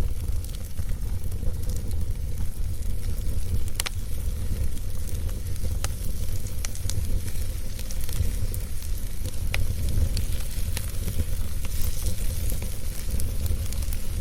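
Wood fire burning in a fireplace: a steady low rumble under a soft hiss, with sharp crackles and pops every second or two.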